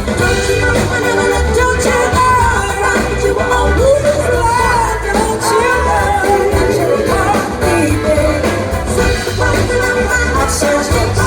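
Live rock band playing with a voice singing over it, a heavy bass pulse underneath, heard through a concert-hall audience recording.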